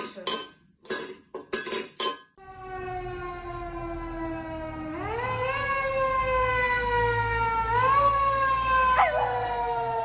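A short stretch of rhythmic music cuts off, then a dog howls in one long drawn-out wail, its pitch sliding slowly down and lifting twice, over a low rumble.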